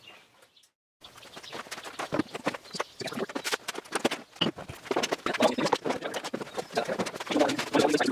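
Busy workshop handling noise: a dense, irregular run of small knocks and clicks, starting after about a second of silence.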